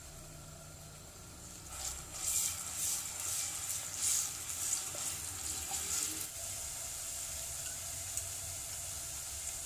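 Garlic-ginger paste sizzling in hot oil in a non-stick pot. From about two seconds in, a spatula stirs it for several seconds, with scraping strokes over the frying, and then it settles into a steady sizzle.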